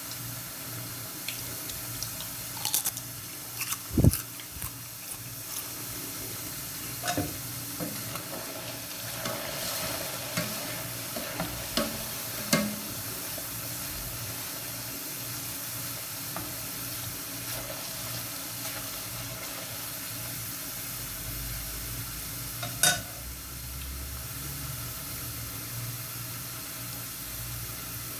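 Kitchen work: a steady hiss under scattered clinks and knocks of utensils and cookware, with one sharp knock about four seconds in and another near the end.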